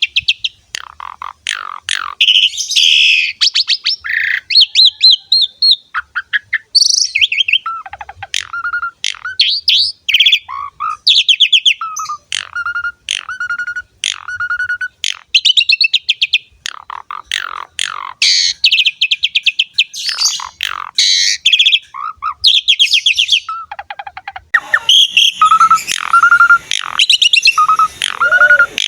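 Asian pied starling (jalak suren) singing without a break: a fast, varied string of whistles, rattles and clicking notes, with a short whistle repeated again and again. A faint hiss comes in under the song near the end.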